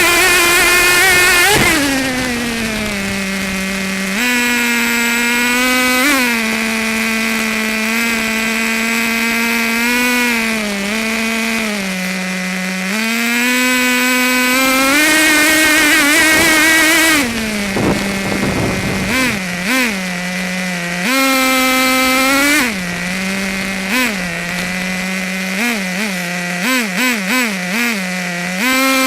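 Traxxas Nitro Sport RC truck's small nitro engine running, heard up close from a camera mounted on the truck. The throttle is repeatedly opened and held, then let back to idle, with a run of quick short throttle blips near the end.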